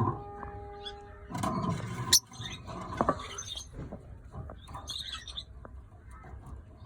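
Lutino peach-faced lovebird giving short, high chirps at intervals, with a few sharp clicks and a brief noisy rustle between them. A steady hum stops about a second in.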